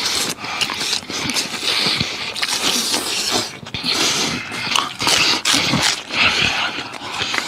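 Close-miked wet chewing, slurping and lip-smacking on fatty braised pig-head meat, coming as an uneven run of smacks and sucks.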